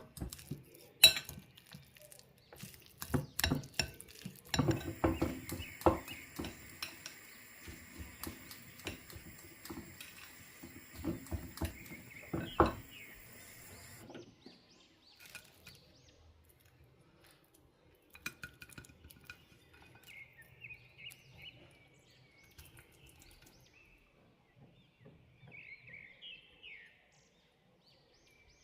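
Kitchen dishes and cutlery clinking and knocking, with a steady hiss under them that cuts off suddenly about halfway through. After that it goes quieter, with a few faint chirps.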